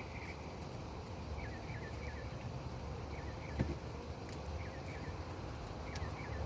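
A small bird chirping in short bursts of two to four quick falling notes, repeated every second or so over a steady low rumble. One soft thump about halfway through.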